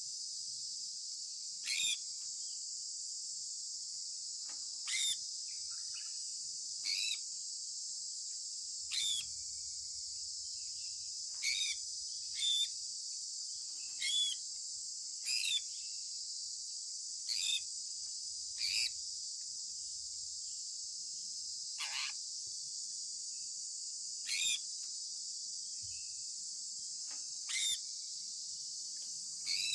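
Short bird chirps, each falling in pitch, repeated every one to three seconds over a steady high-pitched insect chorus.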